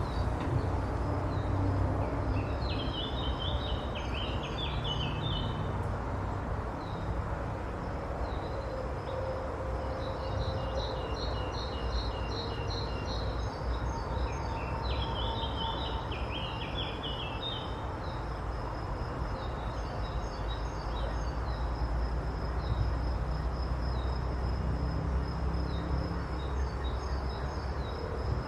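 Bird song over a steady, pulsing high insect trill and a low rumble. One songbird sings a short, busy phrase three times, about every twelve seconds, with other chirps in between.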